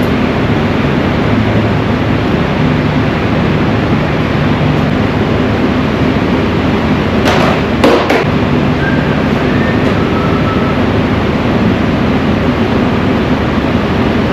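Chevy truck driving, with steady engine and road noise. There is a quick cluster of sharp knocks about halfway through.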